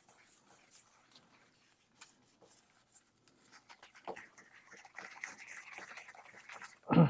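Faint scraping and rubbing of a utensil mixing thick dough in a bowl, starting about four seconds in, with a brief louder thump near the end.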